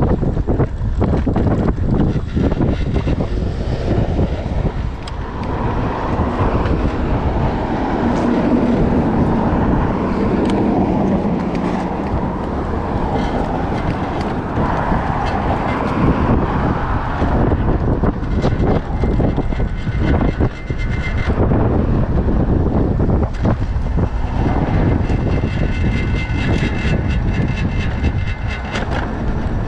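Wind buffeting the microphone during a ride on an electric scooter, with traffic noise. A passing vehicle grows louder and then fades through the middle.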